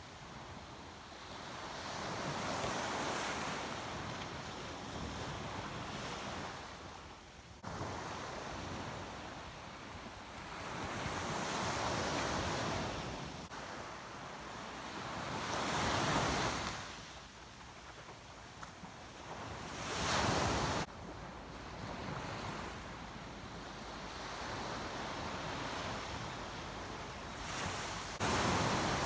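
Surf waves breaking and washing up the beach, swelling and fading every few seconds, with wind blowing on the microphone.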